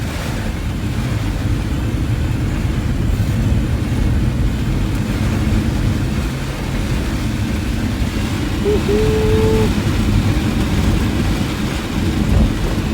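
Car driving in heavy rain, heard from inside the cabin: a steady rumble of engine and road noise with rain noise over it. A brief single tone sounds about nine seconds in.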